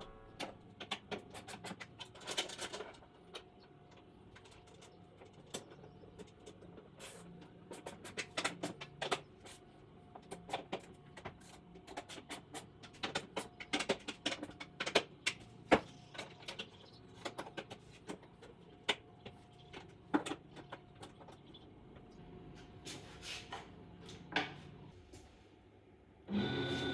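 Many light, irregular clicks and taps over a faint steady hum, in a quiet room.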